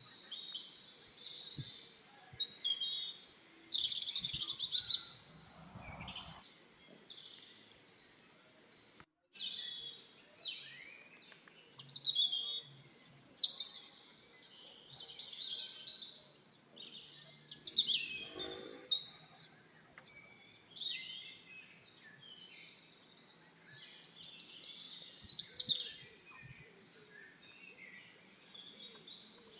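Birds chirping and singing: many short calls and quick falling notes, some overlapping, with a couple of dull low knocks around six seconds in and again around eighteen seconds in.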